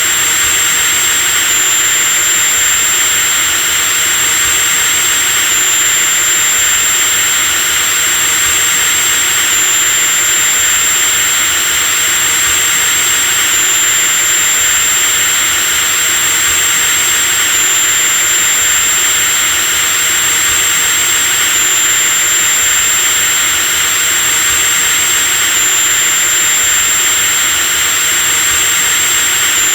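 Electric drill running continuously at a steady speed: a whirring motor noise with a high, constant whine, giving a slight hitch about every four seconds.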